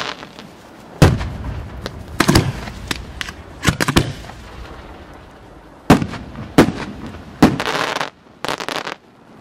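Aerial firework shells bursting overhead at a display: about eight sharp bangs at irregular intervals, some in quick pairs, each with a rolling echo, and a longer noisy, crackling stretch near the end.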